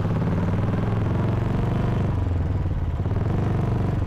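Royal Enfield Classic 350 single-cylinder motorcycle engine running under way, heard from the rider's seat as an even beat of firing pulses, its note dropping a little about two seconds in.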